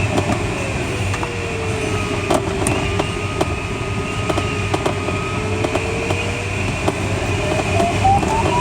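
Steady rush of airflow in an ASK21 glider's cockpit, with the audio variometer's tone sliding slowly down and up in pitch. Near the end the tone climbs higher and breaks into quick beeps, the variometer's signal of rising air.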